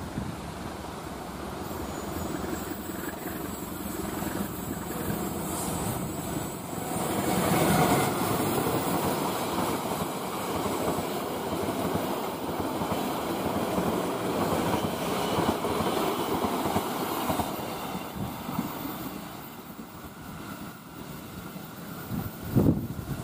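Passenger train coaches running past on a curve, a steady rumble of wheels on rail that is loudest about eight seconds in and eases off toward the end. A few brief low thumps come near the end.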